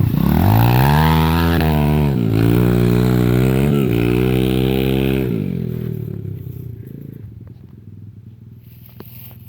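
Motorcycle engine accelerating hard, its pitch climbing and dropping back at three gear changes. About five seconds in, the engine note falls off and fades away to a faint rumble as the bike moves off.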